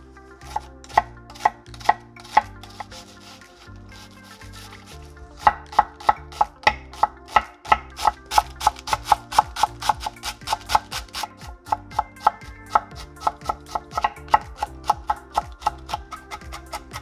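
Knife chopping vegetables on a cutting board. A few spaced strokes come first, then a fast, steady run of about three strokes a second from about five seconds in.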